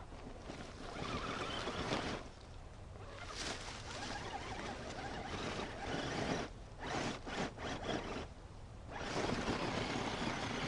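Radio-controlled scale crawler truck driven in short bursts, its electric motor and gears whirring and stopping several times.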